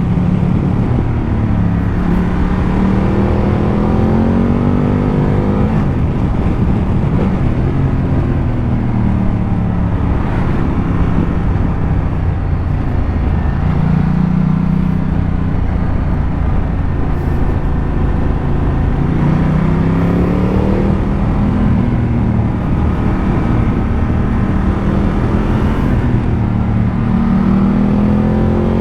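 Ducati Multistrada 1200's L-twin engine riding along, its note rising and falling several times as the bike accelerates and eases off through the road's bends, over a steady rush of wind and road noise.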